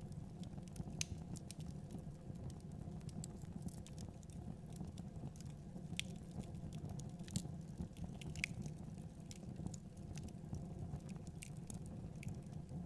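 Fireplace fire burning with a steady low rumble and irregular sharp crackles and pops, a few louder snaps among many small ones.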